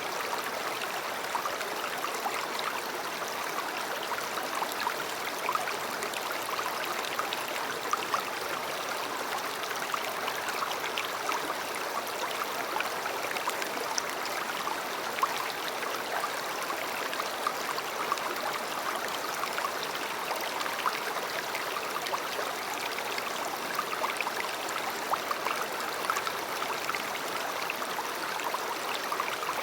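A river flowing, its water running and splashing steadily with many small bright splashes.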